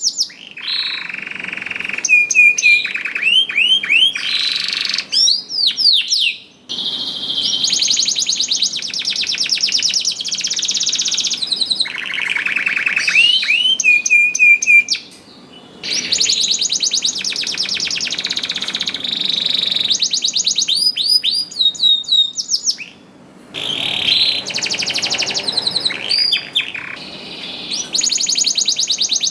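Domestic canary singing hard in long, fast, high-pitched trills and rolling repeated phrases, with a few brief pauses between song bouts.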